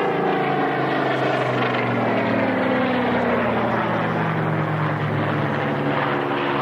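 Propeller-driven aircraft flying past overhead, its engine note sliding slowly down in pitch as it goes by.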